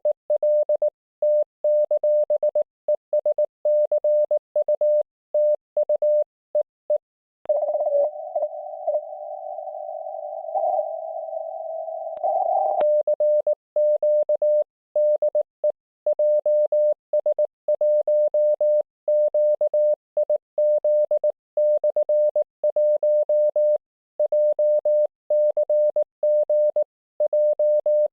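Morse code (CW) from an IC-705 ham radio transceiver during 1.9 MHz Top Band operation: one steady tone keyed on and off in dots and dashes. From about 7 to 12 seconds in, the keying gives way to a longer unbroken stretch of received signal with hiss.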